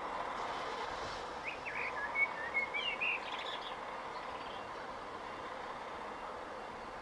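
A small bird singing a short phrase of quick gliding chirps, lasting about two seconds, over a steady background of distant lorry-yard engine noise.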